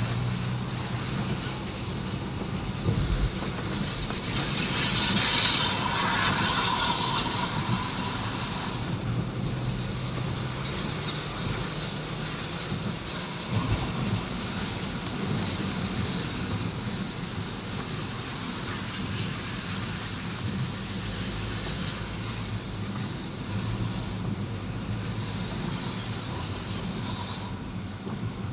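Steady road noise from a vehicle travelling in the rain, with wind buffeting the microphone. A louder hissing swell rises and fades about four to seven seconds in.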